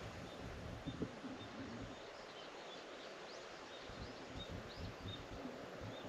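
Birds chirping outdoors: short high notes repeated every half second or so, with a few quick rising calls, over a steady low background hum of open air. A brief knock about a second in.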